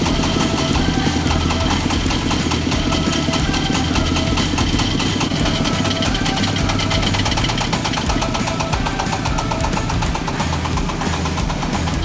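Diesel engine of a mini self-loading concrete mixer running steadily, with a fast even firing pulse, and music underneath.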